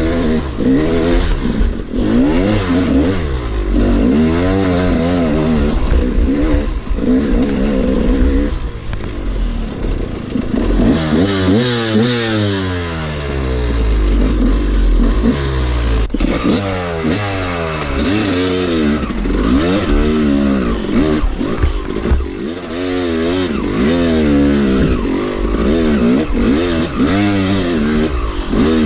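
Two-stroke dirt bike engine revving up and down over and over, the throttle opened and shut in quick repeated bursts.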